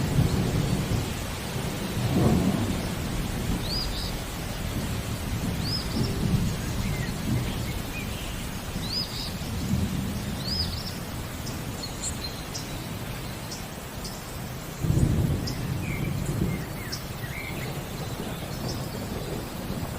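Steady rain falling, with low rumbles of thunder that swell about two seconds in and again near the end. Over it a bird repeats a short, high chirp every couple of seconds.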